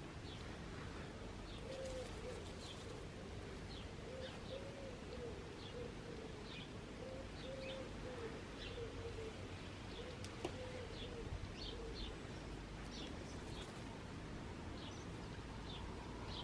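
A pigeon cooing in a repeated low phrase through the first ten seconds or so, with small songbirds giving short high chirps throughout.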